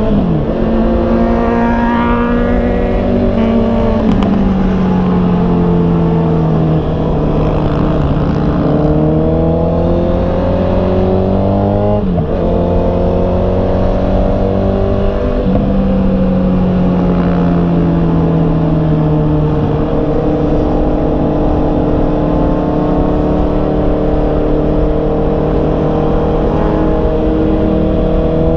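Honda CB650R's inline-four engine running under way, its pitch climbing as it accelerates and falling back as it slows. The pitch drops sharply at the very start and again about four seconds in, with a quick dip-and-return around twelve seconds in, like gear changes; the rest is smoother speeding up and easing off.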